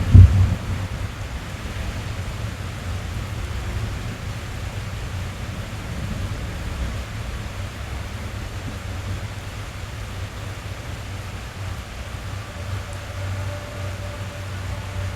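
Rain drumming on a car's roof and windows, heard from inside the cabin as a steady low rumble and hiss. A loud, low thunderclap breaks right at the start.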